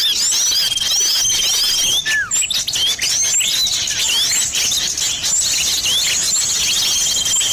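Bird-luring recording of small songbirds, a mix billed as sirtu and common iora (cipoh) calls, playing on a loop. Rapid high chirps run throughout, with a long even trill near the start and again near the end, and a lower falling whistle about two seconds in.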